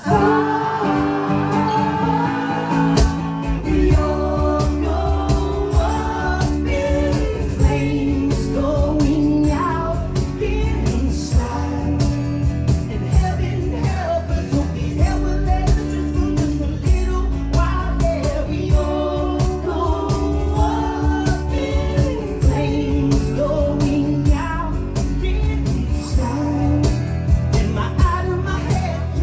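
Live acoustic rock band performance: strummed acoustic guitars with a male lead voice singing, starting abruptly at the beginning.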